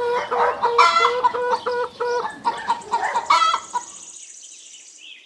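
Domestic hen clucking: a quick run of short, repeated clucks that fades out after about three and a half seconds, leaving only a faint high, steady tone.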